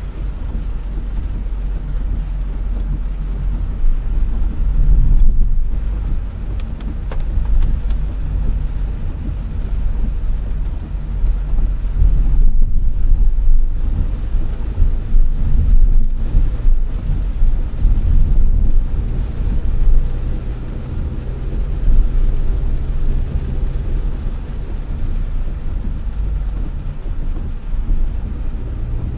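Honda Elevate being driven on wet roads, heard from inside the cabin: a steady low rumble of engine and tyre noise that swells and eases in loudness.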